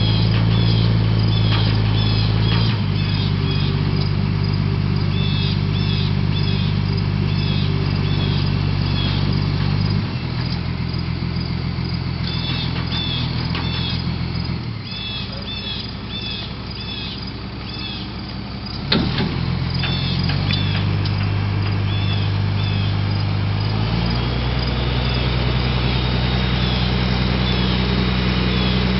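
The 1992 National crane truck's engine running, its speed stepping down and up several times as the crane is worked. High chirping calls repeat over it, and a single sharp knock comes about two-thirds of the way through.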